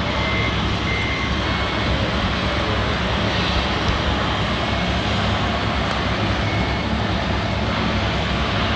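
Steady running noise of RC model vehicles, with a reversing beeper beeping twice in the first second and a half.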